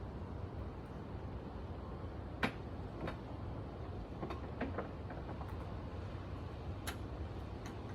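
A few scattered light clicks and knocks over a steady low hum, the sharpest about two and a half seconds in.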